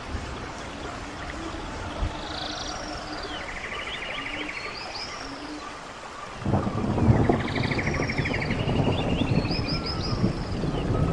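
Birds calling over a soft hiss of running water, with short trills and curving whistles that repeat. About six seconds in, a low rumble of thunder with rain rises in and keeps building.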